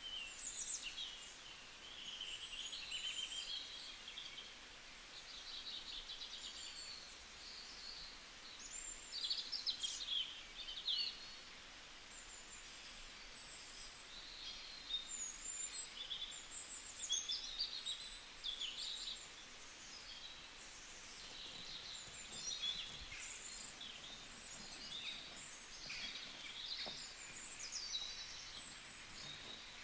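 Birds chirping and singing: many short high calls and trills, one after another, over a faint steady hiss.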